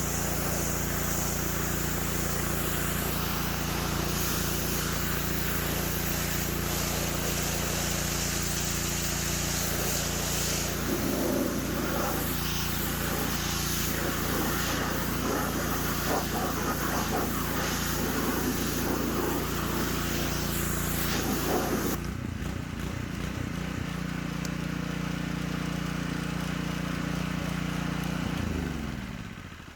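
Simpson PS3228-S gas pressure washer running: a small engine runs steadily under a loud hiss of spraying water. About three-quarters of the way through, the spray hiss stops while the engine keeps running. Near the end the engine is shut off and winds down.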